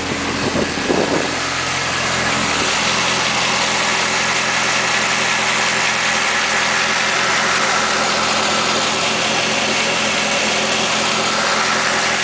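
A 1972 Camaro's 396 big-block V8 idling steadily, a smooth, even idle.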